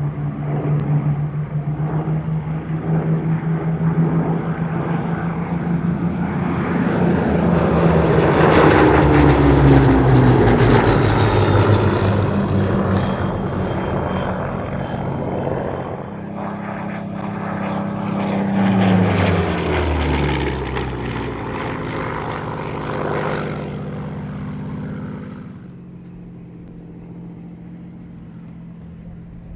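Second World War fighter's V12 piston engine during low flypasts: the engine note swells as the plane approaches and drops in pitch as it goes past. After a sudden cut, a second pass brings the same rise and falling note, and the sound then settles to a quieter, distant drone near the end.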